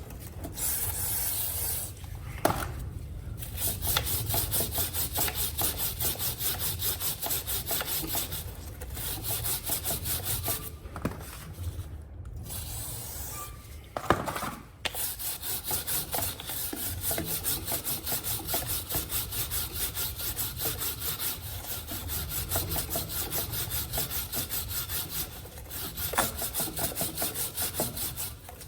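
Three-sided chain-cleaning brush scrubbed back and forth over a Honda CB 500X's sealed drive chain wet with cleaner spray: a rhythmic rasping rub of about four strokes a second, stopping briefly a few times.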